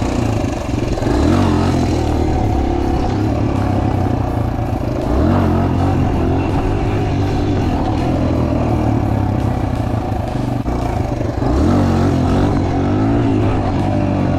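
Suzuki DR-Z125L pit bike's small air-cooled four-stroke single engine being ridden, its pitch climbing and dropping back about three times as it accelerates and shifts.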